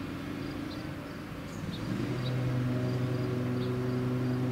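Electric passenger train on the Northeast Corridor, a steady low hum with several pitched tones that grows louder about two seconds in. Faint high chirps of insects repeat in the background.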